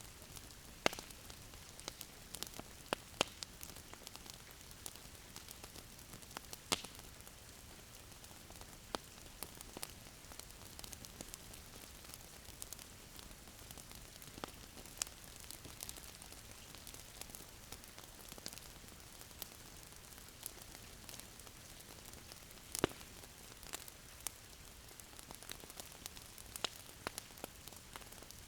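Wood fire crackling in a fireplace: a soft steady hiss with irregular sharp pops and snaps, a few louder ones standing out.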